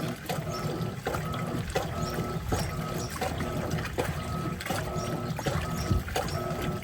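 Electrolux Turbo Capacidade Premium 15 kg top-loading washing machine agitating with its LPR16-type agitator in a full tub of water. The motor whines in short strokes, with a knock about every 0.7 s as the agitator reverses, over water sloshing.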